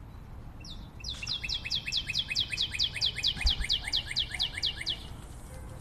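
A bird calling a fast series of short down-slurred notes, about six a second. The calls start about a second in and last about four seconds, over faint low background noise.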